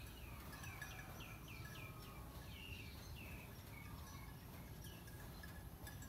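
A bird calling: a quick run of short notes, each falling in pitch, through the first three seconds or so, then a few scattered notes later, over a steady low rumble.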